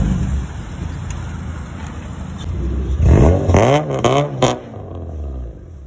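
A Honda Civic sedan's engine running, then revved up and down in several quick blips about three seconds in, before the sound dies away near the end.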